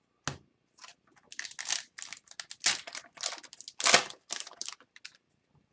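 Hockey trading cards and their foil pack wrapper being handled, giving a quick run of crinkling and sliding rustles, thickest in the middle seconds.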